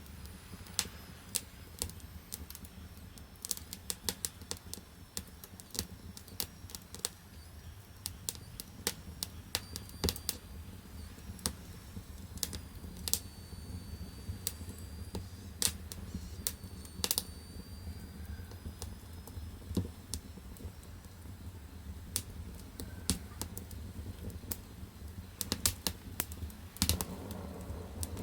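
Firewood burning in the firebox of a wood-fired bath: irregular sharp crackles and pops, several a second at times, over a low steady rumble of the fire.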